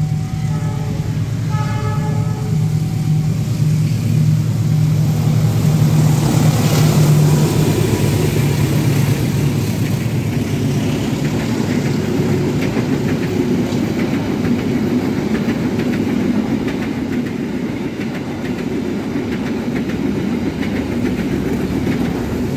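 A diesel-hauled train passing at speed. A steady low locomotive engine hum builds to its loudest about seven seconds in, then gives way to a continuous rumble of wheels on rails as the carriages go by.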